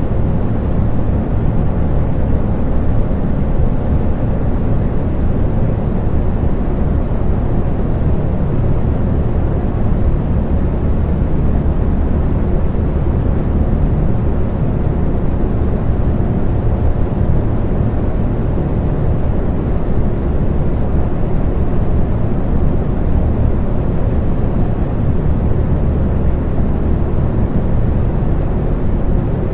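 Electric fan running steadily: a constant low whooshing hum with faint steady tones above it.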